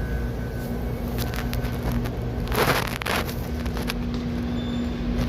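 Electric air blower running with a steady hum, with a brief louder rush of air about halfway through, blowing dust out of a fridge condenser.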